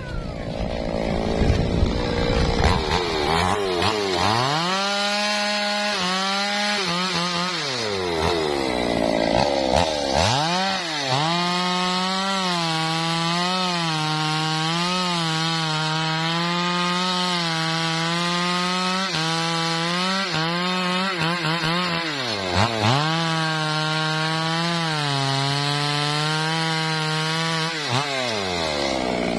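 Two-stroke chainsaw at full throttle cutting into a teak trunk. Its pitch wavers slightly under load, drops away sharply twice as the throttle is let off and picked up again, and falls off near the end.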